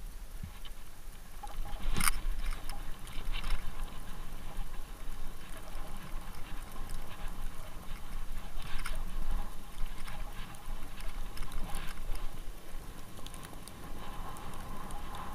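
Bicycle tyres rolling over snow, a steady crunching hiss broken by irregular crackles and a few sharper knocks.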